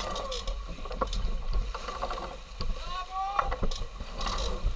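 Sounds on deck of a racing sailing yacht: wind rumbling on the microphone under scattered clicks and knocks of deck gear, with a short gliding squeak about three seconds in.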